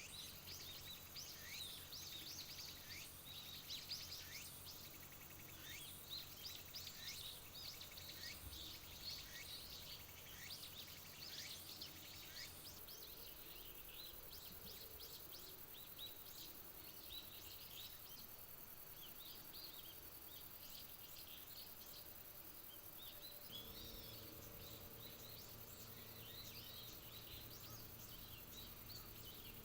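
Faint outdoor nature ambience of high, short chirps repeating about twice a second, then becoming more scattered and varied. A low steady hum comes in about three-quarters of the way through.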